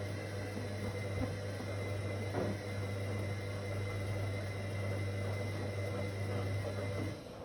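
Whirlpool AWOC 8283 washing machine running with a steady motor hum, which cuts off near the end as the level drops away.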